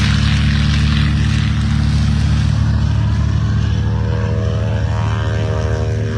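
Grumman Avenger's 1,900-horsepower Wright R-2600 radial engine running steadily with a deep propeller drone as the aircraft taxis; a higher whine joins it about halfway through.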